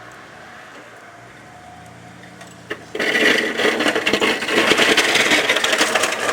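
Faint low hum of an idling engine, then, about three seconds in, a snow shovel begins scraping and crunching loudly and unevenly through snow.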